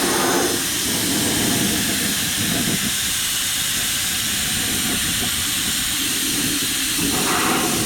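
Harbor Freight air-powered undercoating spray gun hissing steadily as it sprays undercoating onto a truck frame. The hiss cuts off suddenly at the very end.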